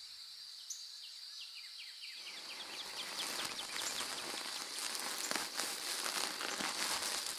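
Insects trilling steadily, high-pitched, with a run of short repeated chirps in the first few seconds. From about two seconds in, a pattering hiss of many small ticks grows louder.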